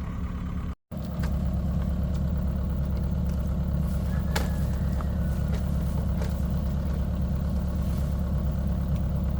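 The engine of a wooden excavator on the water runs at a steady, even speed, with a deep constant hum. There is a brief break in the sound just under a second in, and a few faint clicks later on.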